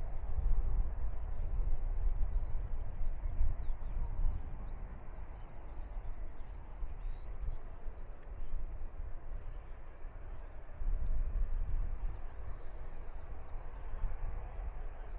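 Wind buffeting the microphone with an uneven low rumble that rises and falls in gusts, while small birds chirp faintly in the background.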